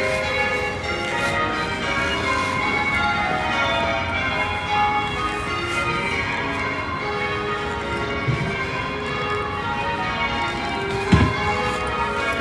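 Church tower bells being rung in a peal, many bells striking one after another in quick succession, their tones overlapping and ringing on. A brief low thump sounds near the end.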